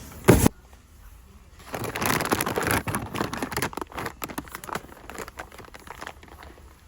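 A sharp thump, then plastic shopping bags and packaging rustling and crinkling for several seconds as purchases are handled.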